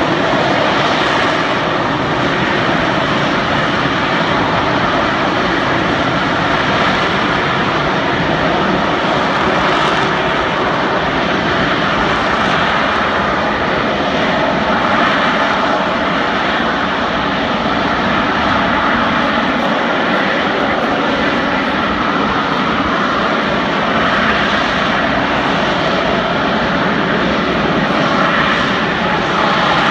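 Harrier jump jet's Rolls-Royce Pegasus turbofan running loud and steady, a dense roar that holds at one level without fading or building.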